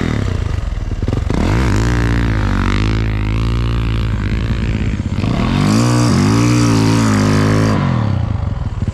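Snow bike engine under load, revving hard with the pitch dipping and climbing again several times as the throttle is worked. There are two long high-revving pulls, the second with a hiss over it, before the revs fall away near the end.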